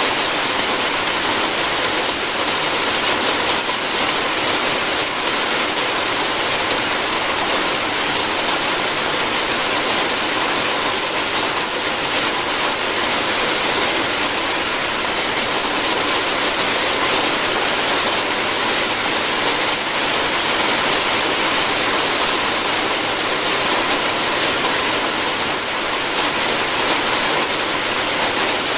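Steady rain falling on a roof, an even dense patter with no let-up or change.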